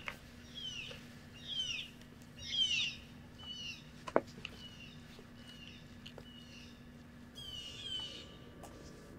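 A songbird singing: a short chirp that sweeps downward, repeated about once a second, over a faint steady hum, with one sharp click a little after four seconds in.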